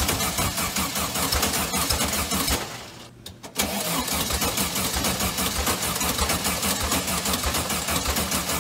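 Car engine cranking over on its starter motor in a fast, even rhythm. The cranking stops about three seconds in and starts again under a second later.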